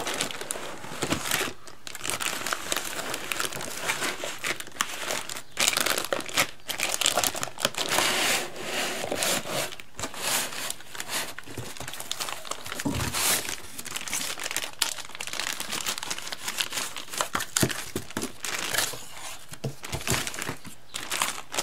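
Cardboard box packaging and plastic wrapping being handled: irregular crinkling, crackling and tearing of paper and plastic as a new power tool is unpacked.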